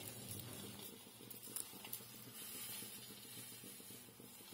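Faint sizzling of a paratha frying in oil on a flat iron tawa, with a low steady hum underneath and a couple of light clicks about a second and a half in.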